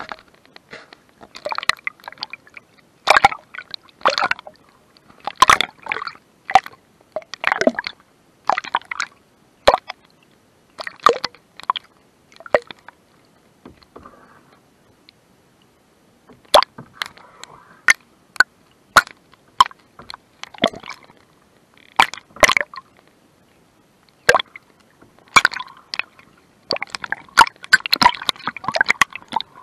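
Canoe paddle dipping into lake water, with irregular splashes and drips, then a steadier wash of moving water near the end.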